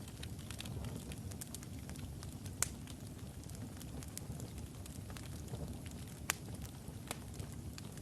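Wood fire burning in a fireplace: a steady low rumble of the flames, with scattered sharp crackles and pops from the burning logs, two of them standing out at about a third and three quarters of the way through.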